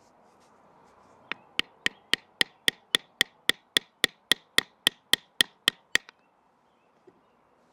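A baton striking in a quick, steady series, about eighteen hits at nearly four a second, splitting a piece of wood by batoning. The hits start about a second in and stop about a second before the end.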